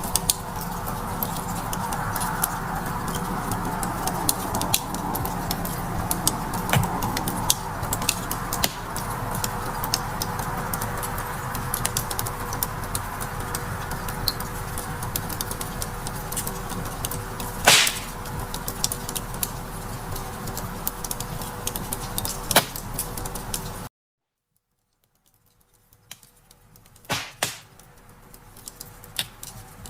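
Wood fire crackling steadily, a dense run of small snaps with an occasional louder pop. About 24 seconds in the sound cuts out completely for about a second, then the crackle returns quieter.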